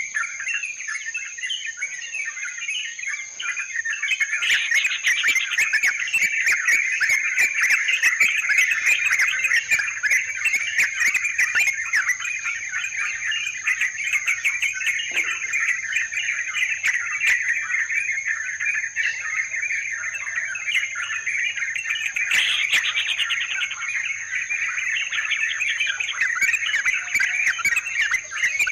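Yellow-vented bulbuls (trucukan) chattering continuously, many bubbling calls running into one another without a break, recorded for luring wild birds.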